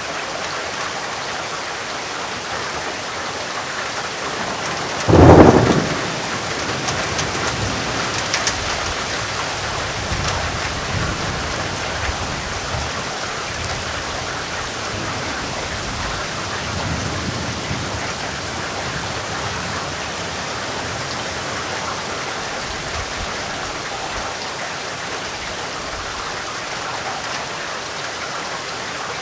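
Steady rain with a sharp clap of thunder about five seconds in, followed by low rumbling that dies away over the next ten seconds or so.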